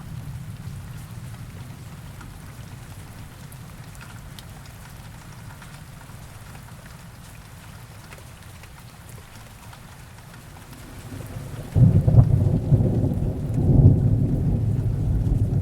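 Heavy rain falling steadily, with a low thunder rumble dying away in the first seconds. About twelve seconds in, a loud thunderclap breaks suddenly and rolls on.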